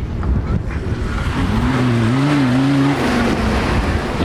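Off-road race vehicle's engine running hard over a noisy rumble of the vehicle driving the course. About a second and a half in, the engine note comes up and wavers up and down in pitch for a second or so, as the throttle is worked.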